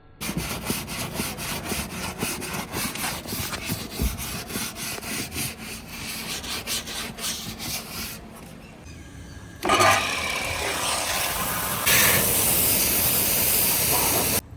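Hand scrubbing of car upholstery or trim with foam cleaner, a brush or cloth rubbing in quick rhythmic strokes. From about ten seconds in comes a loud, steady hiss that turns brighter near twelve seconds and stops abruptly.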